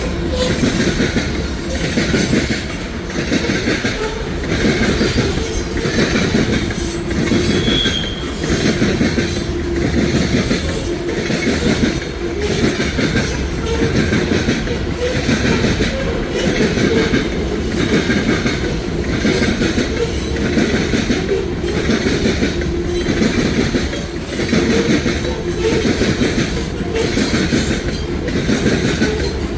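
Loaded potash freight cars rolling past, their wheels beating a regular clickety-clack over the rail joints about once every second and a bit. A brief, faint wheel squeal about 8 seconds in.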